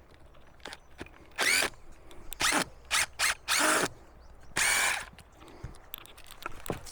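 Cordless drill run in about six short bursts, each winding up in pitch, as screws are backed out of the old wooden timbers of a culvert headwall.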